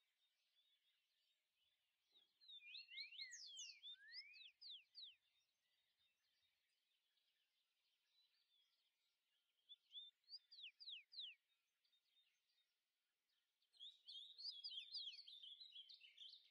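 Faint birdsong: three bursts of quick, sweeping chirps, about two seconds in, about ten seconds in, and again near the end, over a faint background hush.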